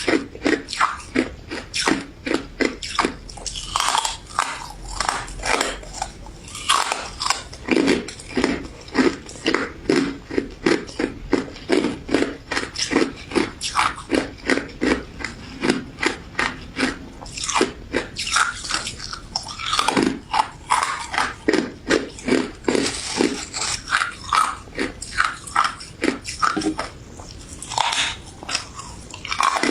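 Close-miked chewing of a crunchy pink crystal ice dessert: rapid crisp crunches, about three a second, with a few short pauses.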